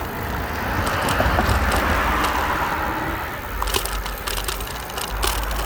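Bicycle riding along: a steady rolling noise with a low rumble, and a run of clicks and crackles in the second half.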